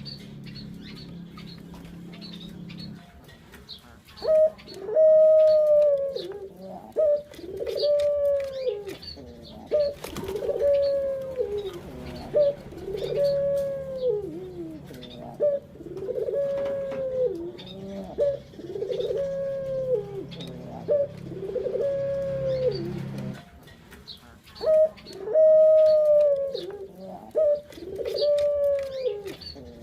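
Puter dove (domestic ringneck dove) cooing: a long run of short, similar calls, about one a second, with a brief pause about three quarters of the way through before the calling resumes. Faint high chirps run underneath.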